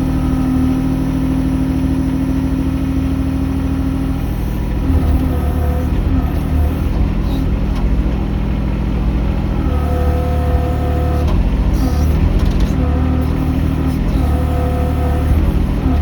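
Mini excavator's engine running steadily, with a higher whine that comes and goes every few seconds as the hydraulics work.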